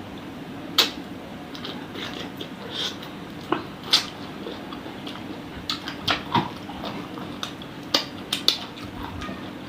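Close-up eating sounds of chicken-feet satay being bitten and chewed: irregular sharp clicks and smacks every second or so over a steady low hum.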